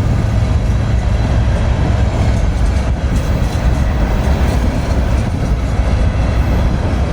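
A train rolling past close by: a steady, loud, deep rumble of the cars on the rails.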